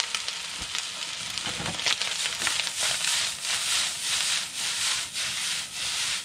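Pork fried rice sizzling in a hot wok while being stirred and tossed, the sizzle swelling with each stroke, about two to three strokes a second from about two seconds in.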